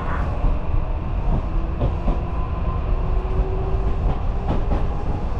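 Inside a moving electric train: a steady low rumble, with the wheels clacking over rail joints now and then.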